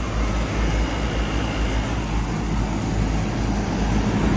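Lennox outdoor air-conditioner units running, their condenser fans giving a steady mechanical noise over a deep, uneven rumble.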